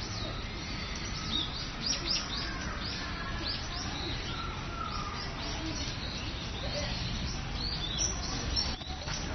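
Small birds chirping busily: a continuous stream of short, high, quickly falling chirps over a low background rumble.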